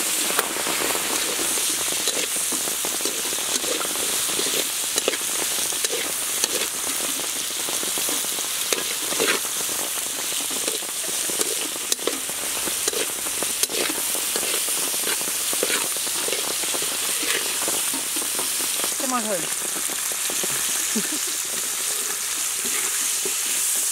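Meat and vegetables sizzling steadily in a wok over a wood fire, with a metal spatula scraping and clinking against the pan as the food is stirred.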